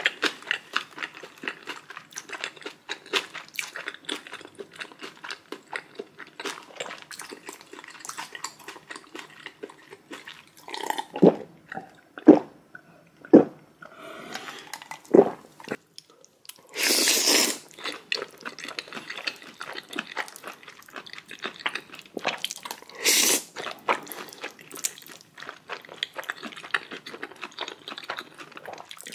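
Close-miked eating: wet chewing and smacking with many small rapid clicks. About halfway through there is a louder drawn-out rushing sound, and another one a few seconds later.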